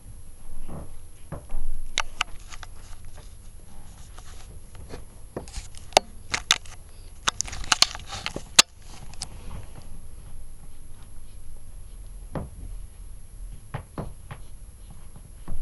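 Irregular light clicks, taps and knocks, with a quick flurry of them around the middle, over a low steady hum.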